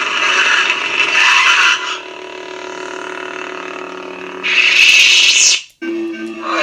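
Lightsaber sound font played through a saber's speaker: loud swing sounds for about two seconds, then the steady electric hum, then a loud rising swoosh that cuts off abruptly, with a new, differently pitched hum starting just after.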